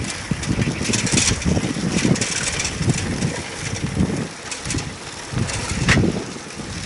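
Wind buffeting the microphone over a low, uneven vehicle rumble while travelling along a road, with gusts of hiss about two and six seconds in.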